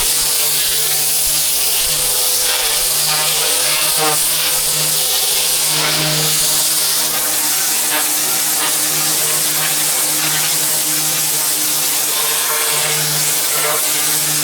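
Pressure washer running with its water jet spraying: a loud, steady hiss over a constant machine hum.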